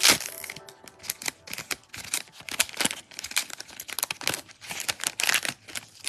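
Plastic wrappers of Donruss football trading-card packs crinkling and tearing as packs are ripped open and handled, a quick run of irregular crackles.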